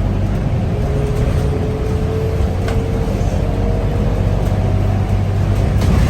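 Interior sound of a Scania K230UB single-deck city bus under way: the rear-mounted five-cylinder diesel runs with a steady low hum. A faint whine rises slowly in pitch from about a second in to midway.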